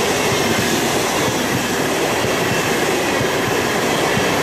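ICE high-speed train passing at speed, a steady loud rush of wheel and air noise as its coaches go by.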